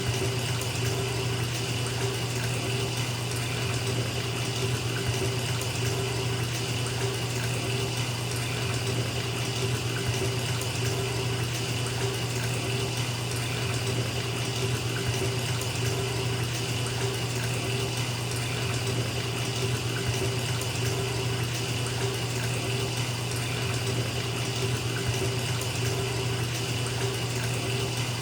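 Bathtub filling from the faucet: a steady stream of tap water splashing into the tub, an even, unbroken rush.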